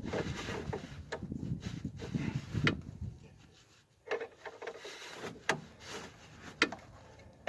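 Scattered metallic clicks, knocks and scraping from hand tools on a Ford Focus III's anti-roll bar link and suspension parts during a repair, with a short drop to near silence about halfway through.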